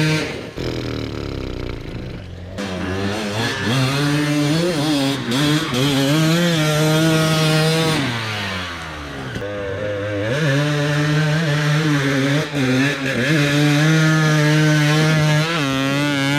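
Dirt bike engine under throttle, its pitch holding high, then falling and climbing again as the revs change. It drops off about half a second in and again around eight seconds in before picking back up.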